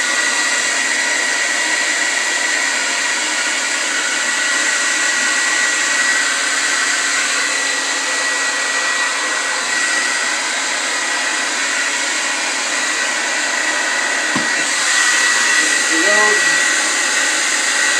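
Hand-held blow dryer running steadily, a constant hiss of air with a high whine, blowing hot air on a vinyl floor tile to soften its adhesive. The hiss grows brighter about fifteen seconds in.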